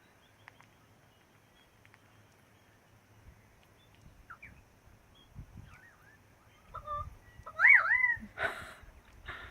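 Superb lyrebird calling: a few faint scattered notes, then, about seven seconds in, clear whistled notes that slide up and down, the loudest part, followed by two short harsh rasps near the end.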